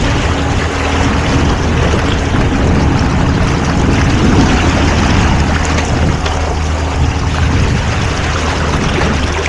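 A boat under way: a steady low motor hum under a constant rush of water and wind noise.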